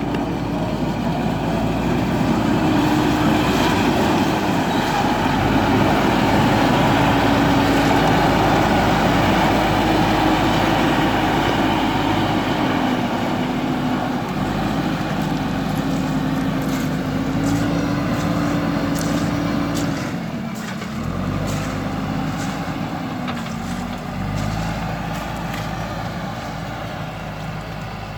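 Diesel engine of a JCB backhoe loader working, its pitch rising and falling repeatedly as it revs under load, with a brief drop in revs about two-thirds of the way through.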